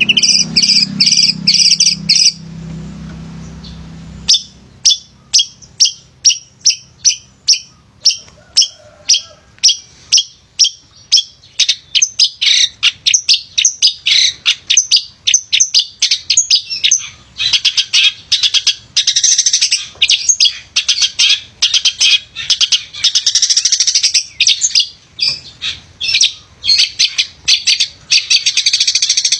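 Male long-tailed shrike (pentet) singing: loud, sharp high notes, a short pause, then single chirps about two a second that build into a fast, continuous chattering song.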